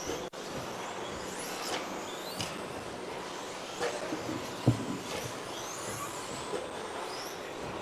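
Radio-controlled stock-class trucks with 13.5-turn brushless electric motors racing, their motors whining up and down in pitch as they accelerate and pass, over a steady hiss. A single sharp knock a little past the middle is the loudest moment.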